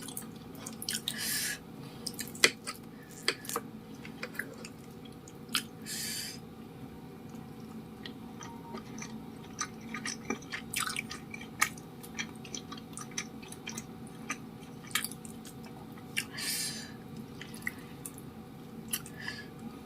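Close-miked chewing of cilok, chewy tapioca-starch balls: many sharp wet mouth clicks and smacks, with a few half-second squelchy bursts.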